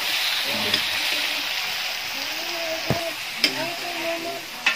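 Pork pieces frying in a metal wok over a wood fire, with a steady sizzling hiss as they are stirred with a ladle. A few short sharp clicks are heard, and voices murmur in the background.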